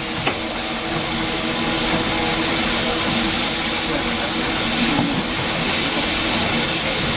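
Steam locomotive giving off a steady hiss of escaping steam, with a faint low hum beneath it.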